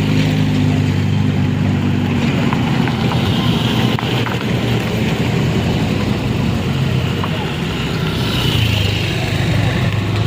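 Motor vehicle engine running steadily with a low hum, easing in the middle and building again near the end.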